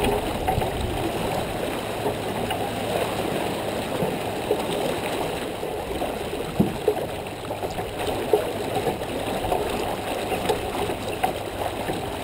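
Water rushing and gurgling along the hull of a J24 sailboat under way, with a few sharp knocks from the boat partway through.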